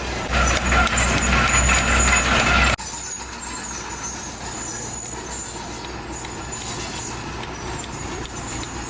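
Komatsu D31PX bulldozer's diesel engine running loudly for about three seconds, then dropping suddenly to a quieter, steady run.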